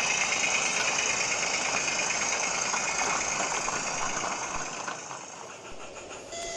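Garden-scale model train running along the track, a steady rhythmic mechanical clatter that fades away about five seconds in as the train moves off.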